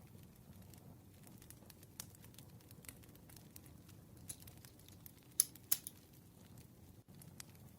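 Campfire crackling: a soft low rumble of burning under scattered sharp snaps, with two louder pops about five and a half seconds in.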